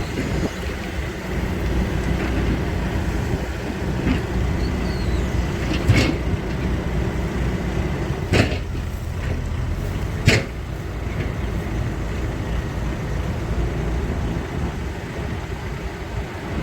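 Kobelco SK200-10 hydraulic excavator's diesel engine running steadily under load as the machine works to get out of soft mud. Three sharp knocks stand out about six, eight and ten seconds in.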